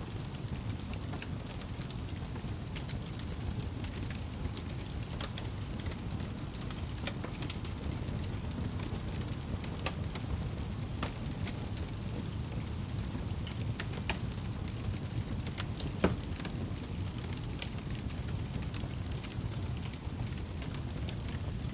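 Wood fire burning in a fireplace: a steady low rumble with scattered crackles and one louder pop about two-thirds of the way through.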